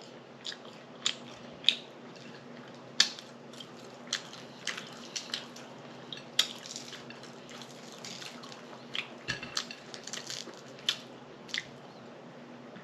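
Close-miked eating: wet mouth clicks and smacks from chewing, irregularly spaced, sometimes several a second, over a faint steady hum.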